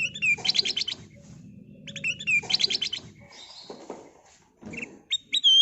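A kutilang emas bulbul singing: two similar chattering phrases, each with a quick run of repeated high notes, then looser calls and two sharp whistled notes near the end. A steady low hum lies underneath for the first half.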